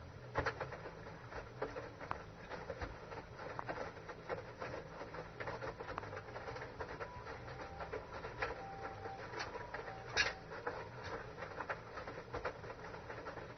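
Washing machine running, its drum turning round with a steady low hum and an irregular patter of light knocks and clicks, one sharper click about ten seconds in.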